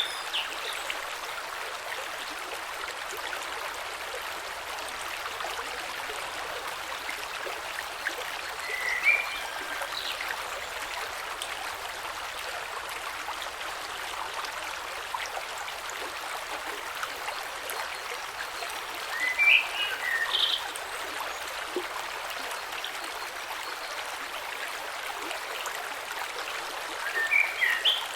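Gentle creek flowing steadily over stones below a small waterfall, an even rushing of water. A few short, high chirps cut in briefly: a pair about a third of the way in, a cluster past the middle and more near the end.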